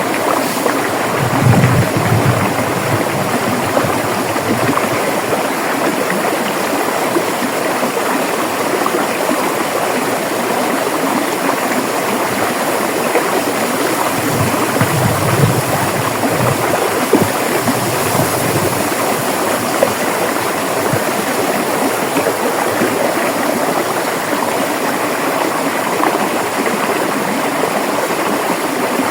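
River water flowing in a steady, continuous rush, with brief low swells of the current about two seconds in and again around fifteen seconds.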